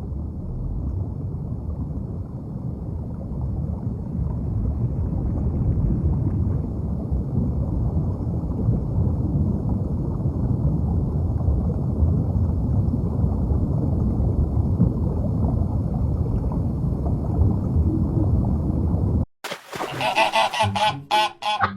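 A large flock of ducks calling all at once, their many overlapping quacks blending into one dense, continuous clamour. It cuts off suddenly about 19 seconds in, and louder, separate pulsing bird calls follow.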